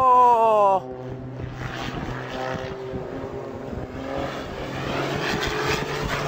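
Aircraft engine running with propeller drone, opening with a loud falling whine that drops in pitch over the first second before settling into a steadier hum.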